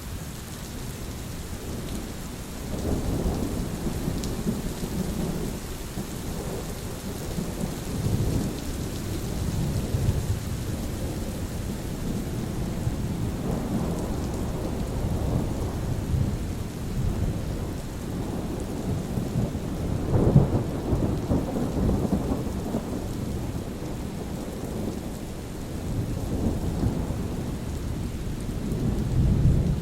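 Thunderstorm: steady rain with repeated low rolls of thunder rumbling over it, the loudest roll about two-thirds of the way through.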